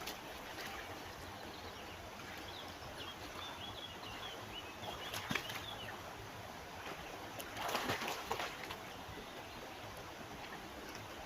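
Steady rush of river water, with a small bird chirping a few seconds in. A sharp click comes about halfway, and a louder rustling burst follows about three seconds later.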